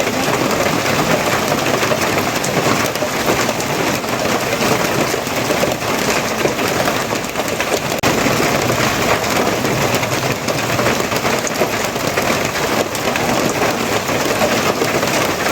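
Heavy rain falling steadily, a dense even patter of drops with no break or change.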